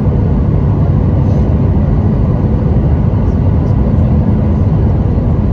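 Cabin noise inside a Boeing 737-800: a steady low rumble of the jet engines and airflow with a faint steady hum, no thumps or changes.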